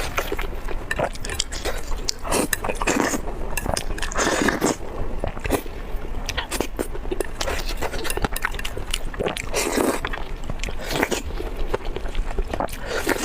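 A person chewing and biting food, with many sharp crunchy clicks and a few longer, louder bites.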